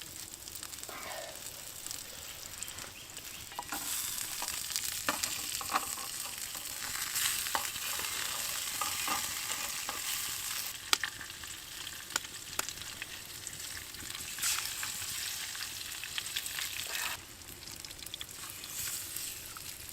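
Scarlet elf cup mushrooms with primrose and wood sorrel sizzling in a hot frying pan, with scattered clicks of a utensil stirring against the pan. The sizzle grows louder about four seconds in and drops back near the end.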